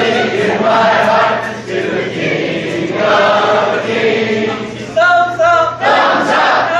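A group of people singing together in chorus. Near the end the singing breaks into short, louder phrases.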